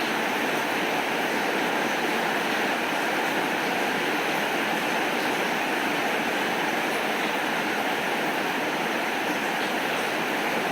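Steady heavy rainfall: an even, unbroken hiss of rain with a few faint scattered ticks of drops.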